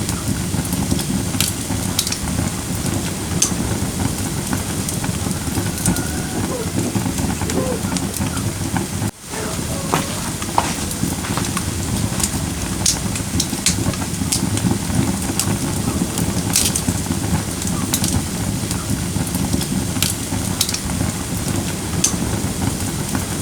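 Firewood burning in a fire pit: a steady hiss and rumble of flames with frequent sharp crackles and pops. The sound briefly drops out about nine seconds in.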